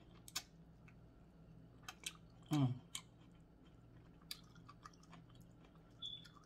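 Close-up chewing of a mouthful of boiled corn on the cob, with small wet mouth clicks and smacks. About two and a half seconds in there is a short, falling hum of the voice.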